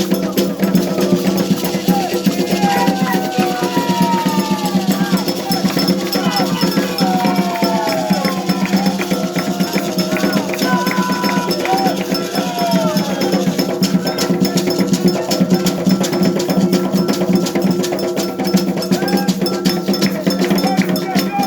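Afro-Brazilian ritual music for Xangô: drums and a clanking metal bell keep a fast, steady beat. Voices sing over it through the first half.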